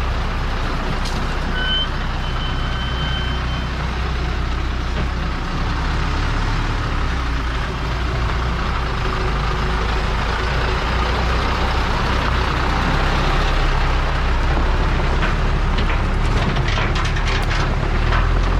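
Diesel engine of a THACO dump truck running steadily at low speed. A short high-pitched tone sounds about two seconds in, and a run of sharp clicks and knocks comes near the end.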